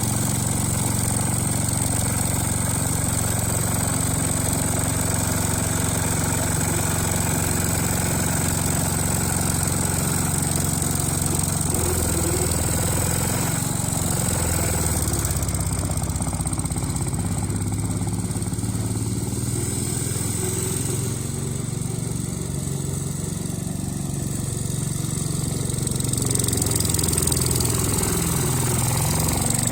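Ford 100 garden tractor's small gasoline engine running steadily after a points and carburettor clean, its pitch shifting a little in places as the speed changes, and getting louder near the end.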